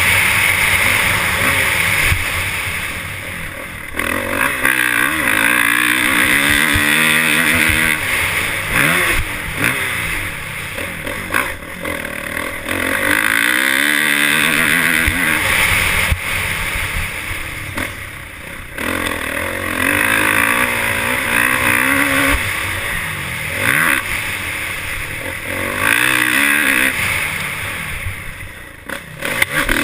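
Motocross dirt bike engines revving up and easing off over and over, the pitch climbing and dropping every few seconds.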